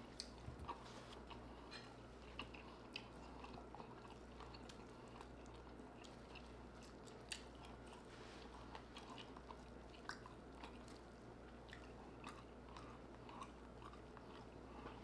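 Close-miked chewing of lobster tail meat: faint wet smacks and mouth clicks at an uneven pace, over a steady low hum.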